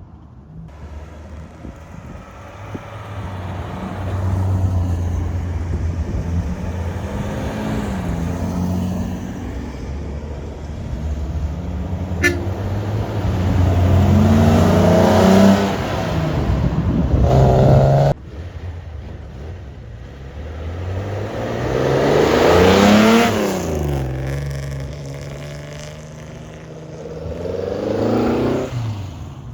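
Classic car engines revving and accelerating as the cars drive past one after another, each rising and then falling in pitch. The sound drops off suddenly about two-thirds of the way through, then further cars rev past.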